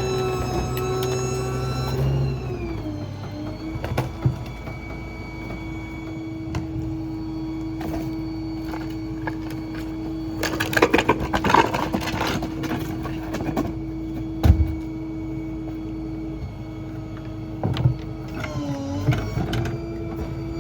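Small Ford F-550 rear-load garbage truck running with a steady hum from its engine and packer. The hum drops in pitch about two seconds in and dips and rises again near the end. A burst of crunching and clattering comes around the middle, with a few single thumps.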